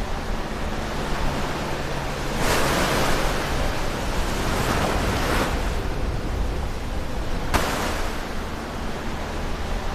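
Ocean waves breaking close to the shore over a steady rush of surf. One wave crashes about two and a half seconds in and its wash runs on for about three seconds, and a short sharp burst comes near the end.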